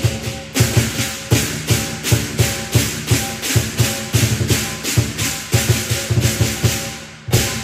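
Lion dance percussion: a large drum beating a fast, steady rhythm together with crashing cymbals. The playing softens toward the end, then comes one loud accented crash.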